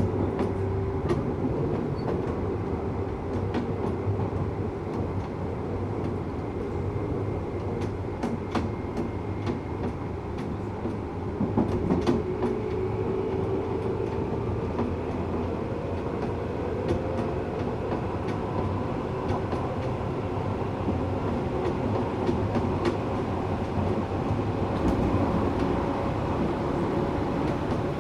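Tokyu 8500 series electric train running, heard from inside the car: steady wheel-and-rail rumble with scattered clicks over rail joints. The Toyo-made traction motors hum with a tone that slowly rises through the second half as the train gains speed.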